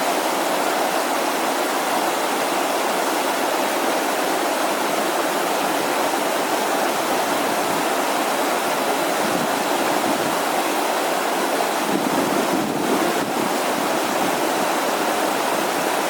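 Fast-flowing river water rushing in a steady, unbroken torrent.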